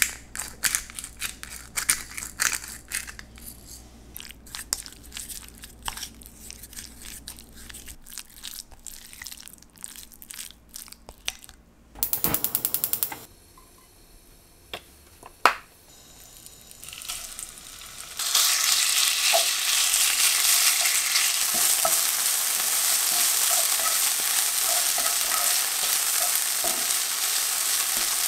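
Scattered knocks and clicks of kitchen work, a short burst of rapid ticking, then food starting to sizzle loudly in a hot frying pan about two thirds of the way in, sizzling steadily from there on.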